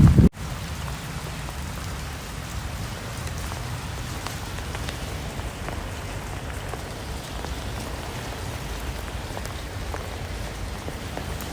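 Steady rain falling, with many single drops ticking through an even hiss. Just after the start, a louder low sound cuts off abruptly and the rain takes over.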